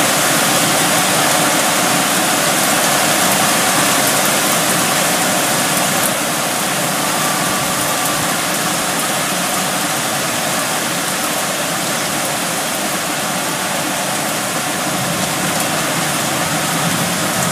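Heavy wind-driven rain pouring down as a steady, dense hiss.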